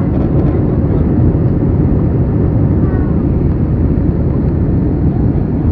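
Airliner cabin noise in flight: a steady, loud rush of jet engine and airflow noise heard from inside the passenger cabin.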